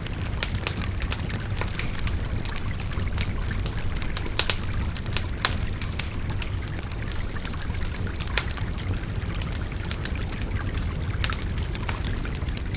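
Wood bonfire crackling, with irregular sharp crackles and a few louder pops, over the steady babble of a river.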